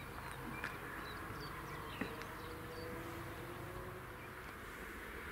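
Small birds chirping now and then over a steady outdoor hiss.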